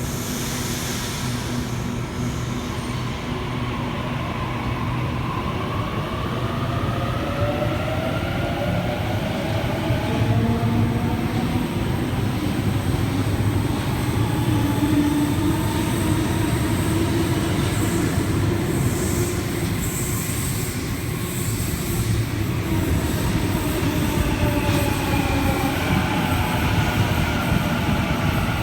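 Sydney Trains electric suburban train running through an underground station platform: a steady rumble of wheels on rail with the traction motors whining in several tones that glide up and then back down.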